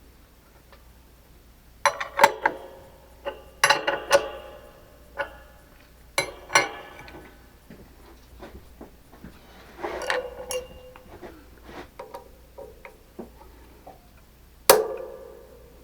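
Metal tools and parts clinking and clanking as they are handled and set down on metal, a string of sharp strikes, some ringing briefly, with the loudest single clank near the end.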